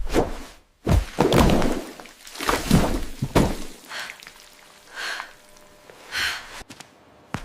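AI-generated food ASMR sounds: a run of dull thunks and knocks in the first half, then three softer, shorter sounds spaced about a second apart.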